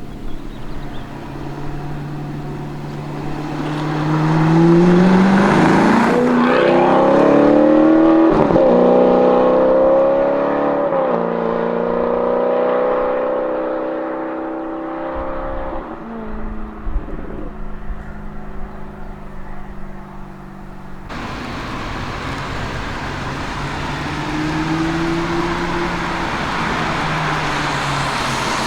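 Alfa Romeo 8C Spider's V8 engine accelerating and revving. Its pitch climbs steeply about five seconds in and holds high and loud, then drops back and runs steadier. Near the end it rises and falls again in a shorter rev.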